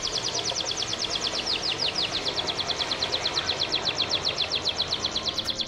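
A bird singing a long, rapid trill of short, high, descending notes, about a dozen a second, over steady background noise.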